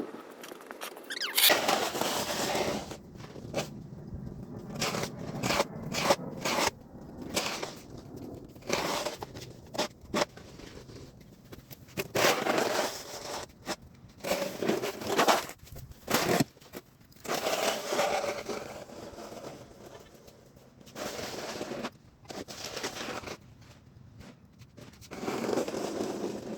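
Snow shovel scraping heavy, wet, icy snow off a driveway in repeated, irregular strokes, some short and some a second or two long.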